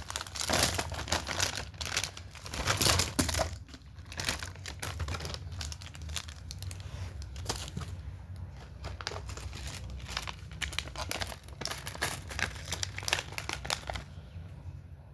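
Candy packaging crinkling and tearing as it is handled and opened, an irregular crackle that is loudest in the first few seconds and stops shortly before the end.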